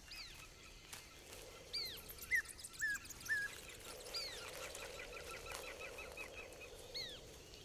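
Birds calling: several high calls that arch up and slide down in pitch, a few short chirps, and a quick chattering run of clicks about four seconds in.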